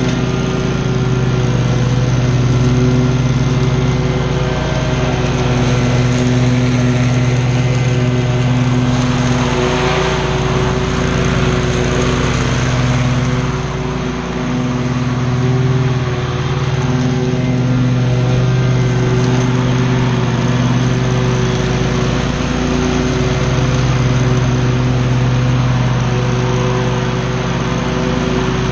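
Commercial lawn mower engine running steadily with its blades cutting grass. The engine note dips briefly a few times midway.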